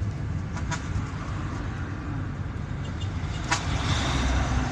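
Car engine and road noise heard from inside the moving car's cabin as a steady rumble, with a few sharp clicks. The noise swells toward the end.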